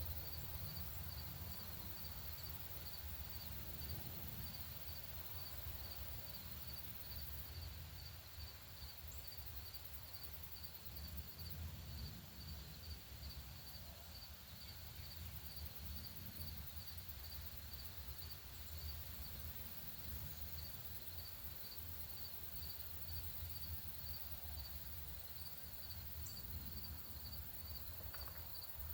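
An insect chirping in a steady, evenly repeated rhythm, over a constant low background rumble.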